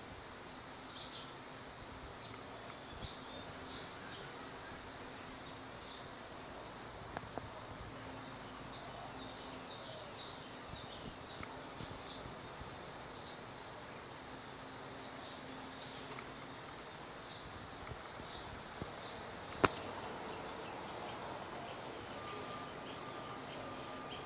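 Small birds chirping, short high chirps repeated through an outdoor background hiss. One sharp click about twenty seconds in is the loudest sound.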